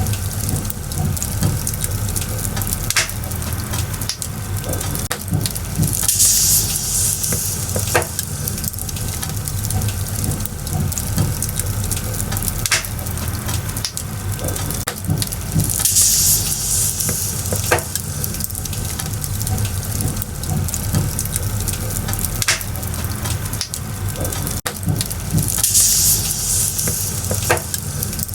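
Burning firewood in a bonfire crackling steadily, with frequent sharp pops and a hissing surge about every ten seconds.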